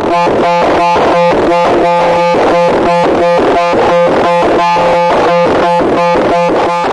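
A loud, harsh buzzing tone made of several steady pitches, pulsing rapidly and evenly about four times a second.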